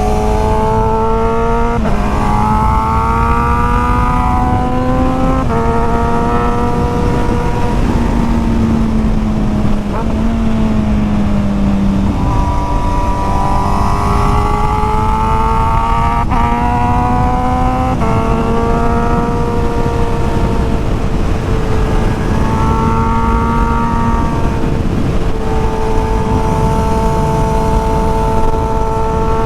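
Sport motorcycle engine pulling hard through the gears: its pitch climbs, then drops briefly at each of several gear changes, and steadies into a long held pull in the last third. A constant rush of wind noise runs underneath.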